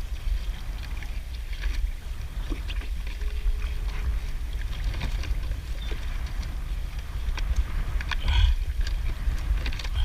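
Wind buffeting the microphone over open water, with scattered light knocks and clicks from crabs and crab-trap gear being handled on a kayak while crabs are measured and sorted.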